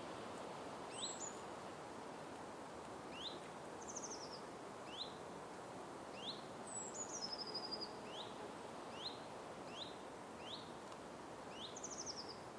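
Forest ambience: birds give short rising chirps every second or so, with two higher falling calls and two quick buzzy trills, over a steady background hiss.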